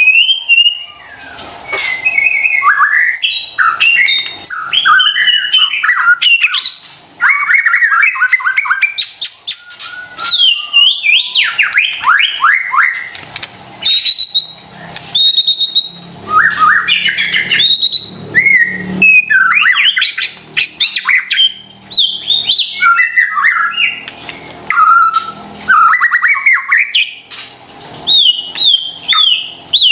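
White-rumped shama (murai batu) singing a fast, varied song of quick down-sweeping and up-sweeping whistles, harsh notes and sharp clicks, running nearly without a break apart from short pauses.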